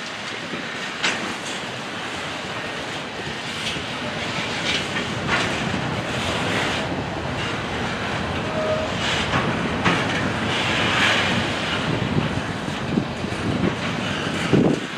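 Freight cars rolling past, their steel wheels clacking steadily over the rail joints, with brief high metallic squeals here and there and a louder knock near the end.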